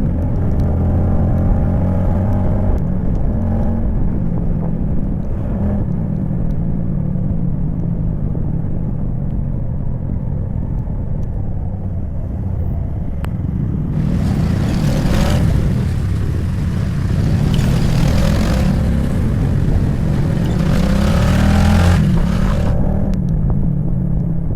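A motorcycle engine runs steadily while riding, with wind and road rush over it. Twice in the second half a louder rushing noise swells and fades.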